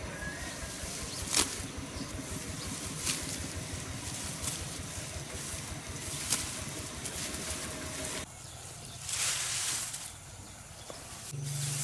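Rice being cut by hand with a sickle: sharp snips about every one and a half seconds, with a rustle of stalks, over a low rumble. A steady low hum starts near the end.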